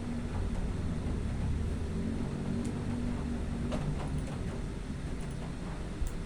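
Distant thunder rolling as a steady low rumble, with a few faint ticks over it.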